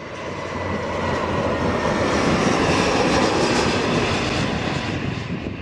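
Jet airliner's engines roaring as it passes close by, the roar swelling over the first couple of seconds and easing a little near the end.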